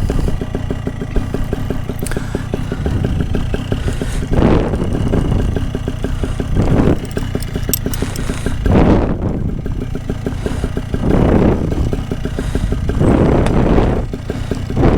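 An engine running steadily, with gusts of wind buffeting the microphone every couple of seconds.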